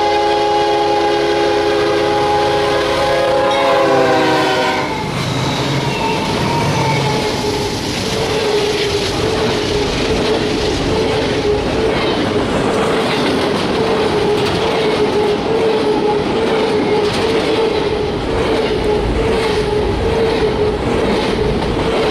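A freight train's GE diesel locomotive sounds its multi-chime air horn, the chord dropping in pitch as it passes and cutting off about four and a half seconds in. Then the freight cars roll by with a steady clickety-clack rumble and a steady whine running through it.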